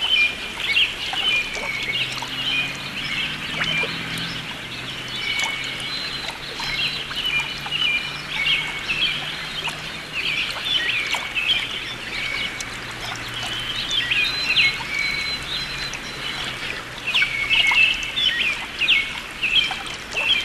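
Birds chirping and calling in many short, repeated notes, over a faint low hum.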